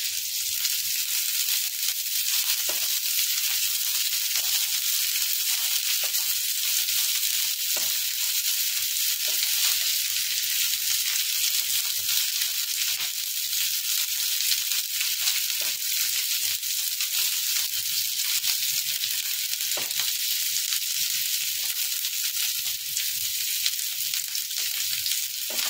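Capsicum strips, green chillies and garlic sizzling steadily in hot oil in a non-stick pan over high heat, stirred with a silicone spatula. Now and then there is a soft scrape or tap of the spatula.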